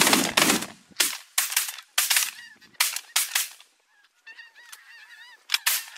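Volley of shotgun blasts from several hunters, about a dozen shots in quick, irregular succession over the first three and a half seconds, then two more near the end. Between and after the shots, snow geese are calling overhead.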